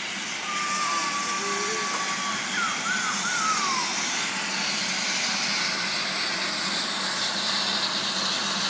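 Helicopter engine running steadily on the ground ahead of take-off, a continuous high whining rush.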